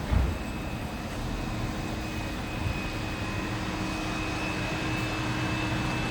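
Steady machine drone with a high, even whine and a lower hum, and a short thump just after the start.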